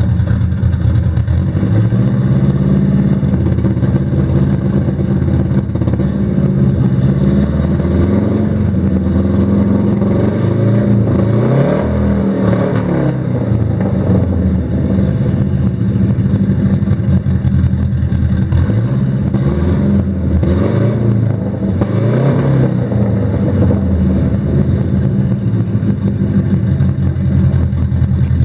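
1986 Subaru GL-10 Turbo's flat-four engine idling steadily through its exhaust, revved up and let fall back to idle about ten seconds in and twice more around twenty seconds in.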